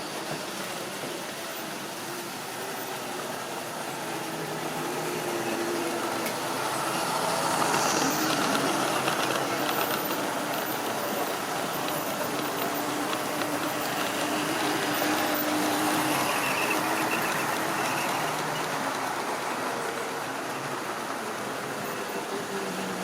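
Model railway train running along the track: a steady whir of the motor and the wheels on the rails. It grows louder about a third of the way in and eases off near the end.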